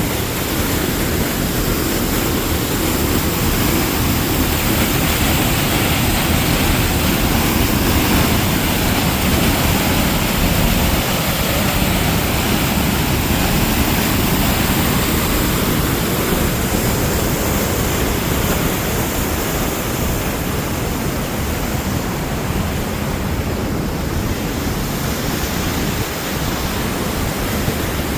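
Rushing creek water, a loud steady rush that holds without a break.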